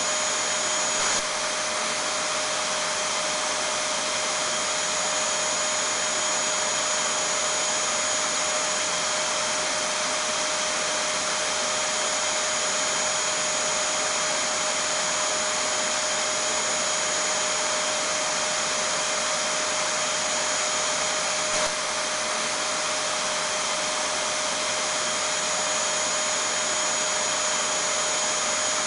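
Vacuum cleaner running steadily: an even, unchanging hiss with a constant high whine over it.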